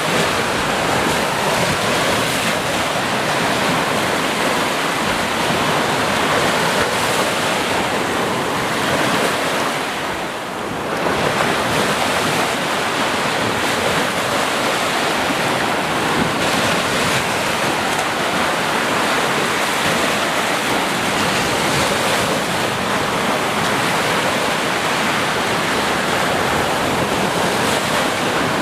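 Sea waves breaking and washing on the shore, a continuous rushing surf, easing briefly about ten seconds in before swelling again.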